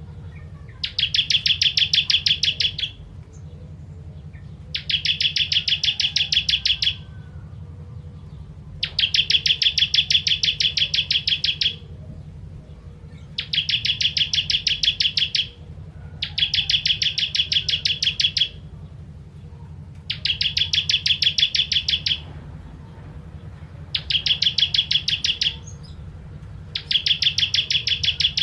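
Ciblek kristal prinia singing: fast, rapidly repeated chattering trills in bouts of two to three seconds, each followed by a short pause. A steady low hum runs underneath.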